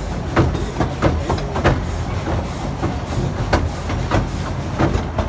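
Efteling theme-park train running along its track: a steady low rumble with sharp wheel clacks every half second or so.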